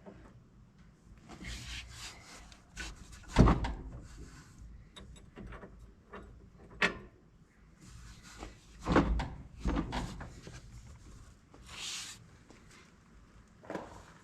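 Scattered knocks and clunks of tools and parts being handled during hands-on repair work, with rustling between. The loudest knock comes about three and a half seconds in, with others near seven and nine seconds.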